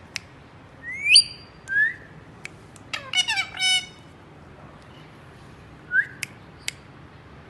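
Indian ringneck parakeet calling: short sharp rising calls about a second and two seconds in, a quick chattering run of stepped notes around three seconds in, and another call near six seconds, with a few sharp ticks in between.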